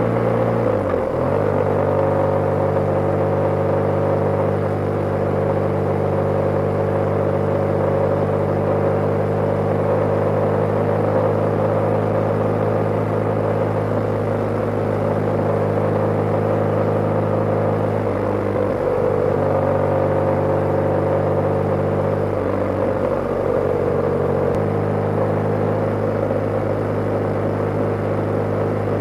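BMW G/S motorcycle's boxer-twin engine running steadily under way. The engine note breaks and changes pitch briefly a few times, as with gear changes.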